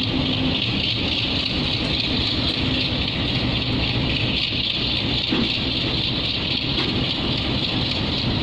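Passenger train coaches rolling past close by, their wheels on the rails making a steady rushing noise. A low hum fades out about half a second in.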